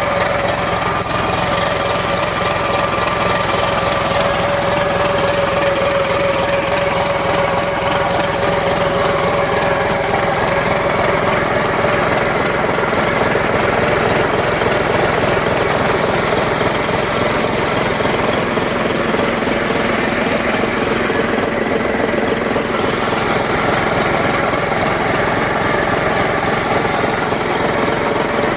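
Caterpillar 3406C inline six-cylinder diesel engine from a D8R bulldozer running steadily on a test run, at an even level throughout, with a faint whine in the first several seconds that fades.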